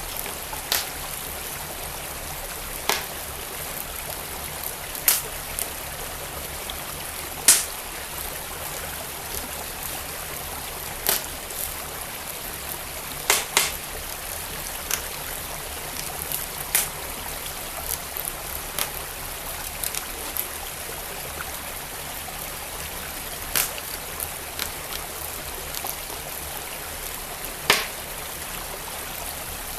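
Wood fire crackling, with sharp irregular pops every few seconds, over the steady rush of a flowing stream.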